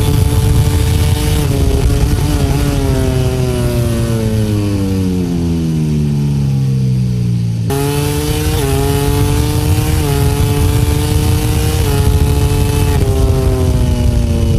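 MotoGP racing motorcycle engine at high revs, heard from the onboard camera with wind rush over it. The pitch steps down through several gear changes and falls for a few seconds. About halfway through it is suddenly back at high revs, then drops in steps again near the end.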